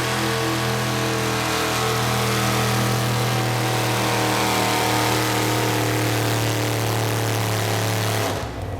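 Modified pulling tractor's engine running hard at high, steady revs with a loud hiss of high noise over its note. Near the end the pitch drops and the sound falls away sharply as the engine comes off the throttle.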